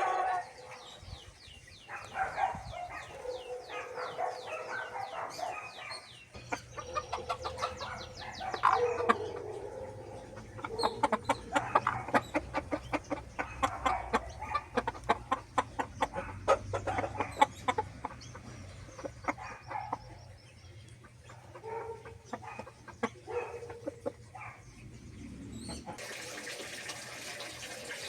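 Birds calling: runs of quick, high chirping notes mixed with many short clucking calls. Near the end, running water starts.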